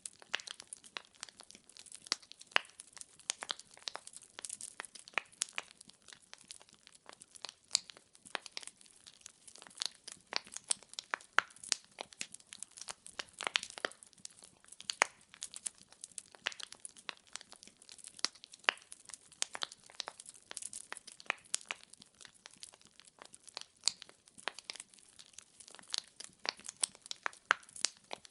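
Wood fire burning in a fireplace: dense, irregular crackling and popping of burning firewood over a faint hiss of flame.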